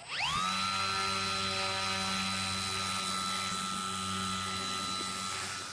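Model airplane's small electric motor spinning its propeller: a whine that rises quickly as it spins up, holds a steady pitch over a rushing hiss, then fades near the end.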